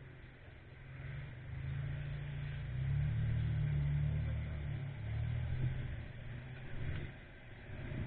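Motorcycle on the move, heard through an action camera's microphone: a low, uneven engine-and-wind rumble that swells over the first few seconds and eases off near the end.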